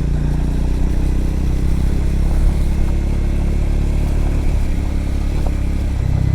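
Triumph Scrambler's parallel-twin engine running at a steady pace while riding a gravel road, with tyre and road noise underneath.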